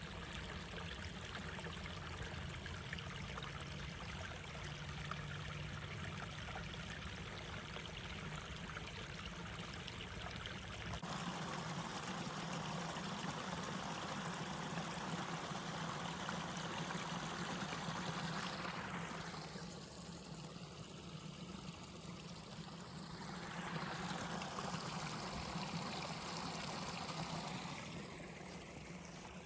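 Steady rushing of running water, like a forest stream. Its tone shifts about eleven seconds in and dips and rises again in the last third.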